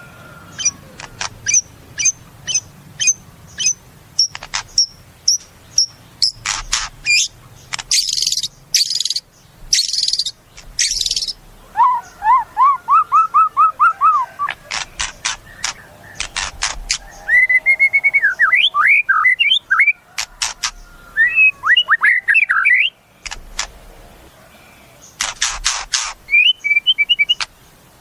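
White-rumped shama singing a long, varied song: runs of sharp repeated high notes, dense rattling stretches, and quick series of lower notes that sweep up and down.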